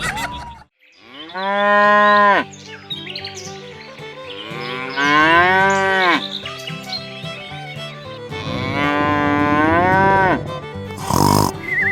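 Cow mooing three times: long calls that rise in pitch, hold, then drop away. Light background music plays underneath, and a short noisy burst comes near the end.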